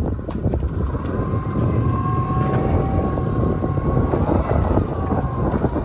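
Fishing boat's engine running steadily, with wind buffeting the microphone and a faint wavering whine over the rumble.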